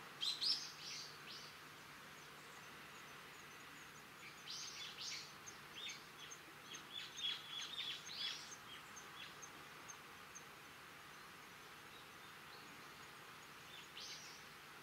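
Wild birds calling in the trees: clusters of short, sharp, high notes that slide downward, at the start, through the middle and again near the end, over a faint steady outdoor hiss. A faint, fast, high ticking runs through the middle.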